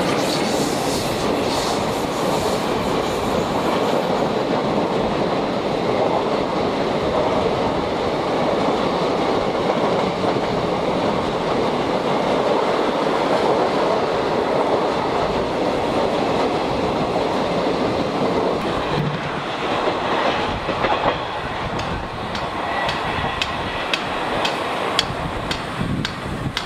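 Express train's coaches rolling past, wheels clattering over the rail joints. The sound eases about twenty seconds in as the tail of the train goes by, leaving a run of sharp wheel clicks near the end.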